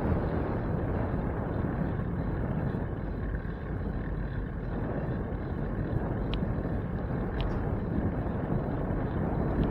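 Steady low rumble of wind on the microphone while cycling, mixed with road and traffic noise. Two faint short ticks past the middle.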